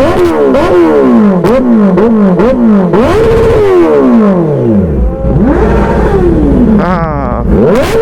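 Kawasaki Z900 inline-four with an aftermarket exhaust, revved while standing in quick throttle blips, about two a second. A longer rev then falls back to a low idle, and the engine is blipped again near the end.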